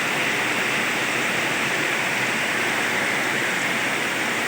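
Steady moderate rain falling, an even hiss.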